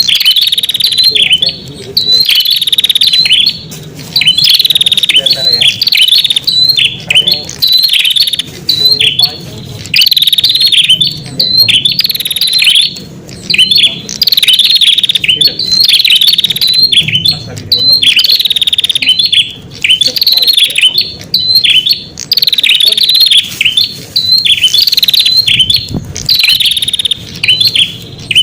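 Prenjak kepala merah (ashy tailorbird) song played as a lure call: loud, rapid chirping phrases repeated every second or two with short breaks between them.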